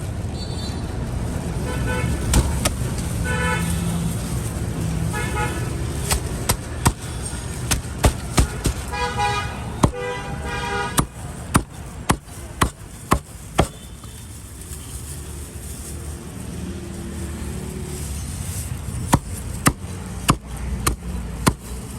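Street traffic rumbling, with vehicle horns honking several times in the first half. From about six seconds in, a cleaver chops on a board in sharp knocks, roughly two a second, in runs.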